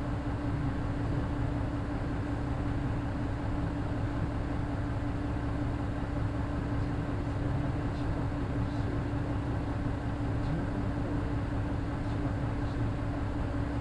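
Mitsubishi Fuso Aero Midi bus's naturally aspirated 6M61 diesel engine running at a steady speed, heard from inside the cabin, with a steady hum that keeps one pitch throughout.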